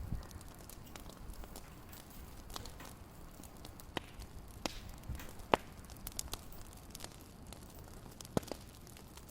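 Wood fire crackling: irregular sharp pops and snaps over a soft low rumble, the loudest pop about halfway through.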